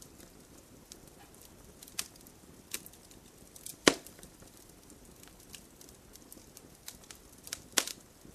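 Fireplace fire crackling: scattered sharp pops over a faint low hiss. The loudest pop comes about four seconds in, and another sharp one near the end.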